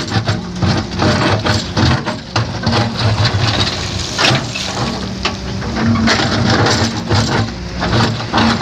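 Heavy diesel construction machine running under load, with irregular cracking and crunching of material being worked.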